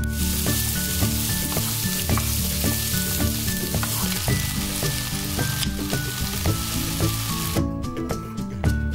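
Diced red and yellow bell peppers and onion sizzling as they are stir-fried in oil in a frying pan. About three-quarters of the way through the sizzling stops abruptly, and a knife taps through tofu onto a wooden chopping board.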